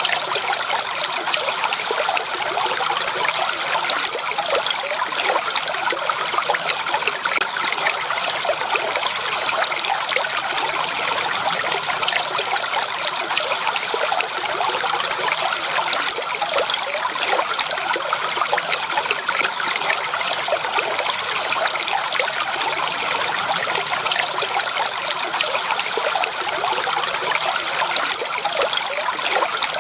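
Running water of a small stream, trickling and babbling steadily over stones, with no change in level.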